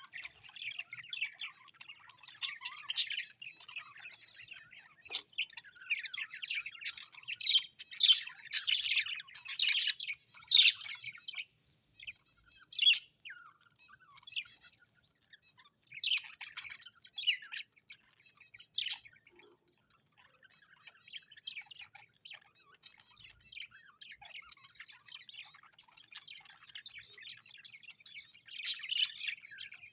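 Several small birds chirping and chattering at once, with scattered louder squawks. The calls are busiest in the first half. After a brief lull there are a few separate loud calls, then softer chatter that grows again near the end.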